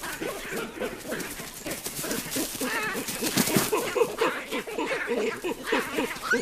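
Olive baboons calling: a run of short, rapid calls, one after another, with a few higher chirps among them.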